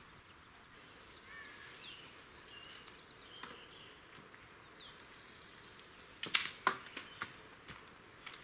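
Small birds chirping faintly in open countryside, with a short run of sharp crackling clicks about six seconds in that makes up the loudest sound.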